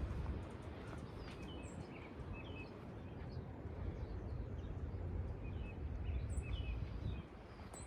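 Small birds chirping repeatedly in short calls over a steady low outdoor rumble, which eases off near the end.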